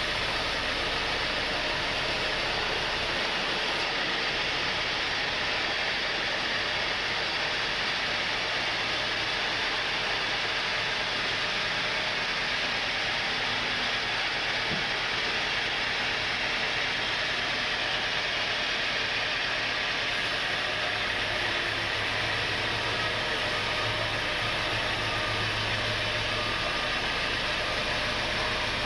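Sawmill machinery running, a steady even noise throughout.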